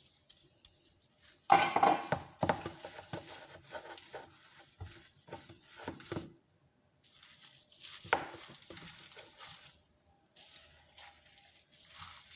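Dishes and cutlery clinking and clattering in an irregular run of knocks, the loudest about a second and a half in.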